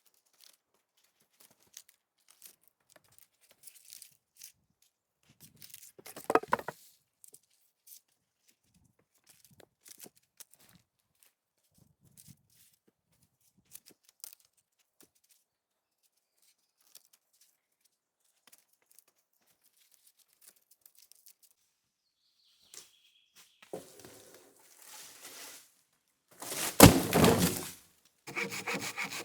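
Scattered light knocks and clicks of wood being handled, with a sharper wooden thunk about six seconds in and a louder crunching rustle near the end. In the last second a folding saw starts cutting wood in even back-and-forth strokes.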